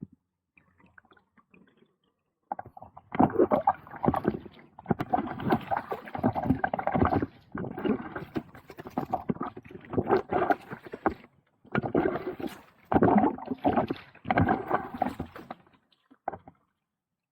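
Kayak paddle strokes in the water, a regular series of splashing pulls about once a second after a quiet start.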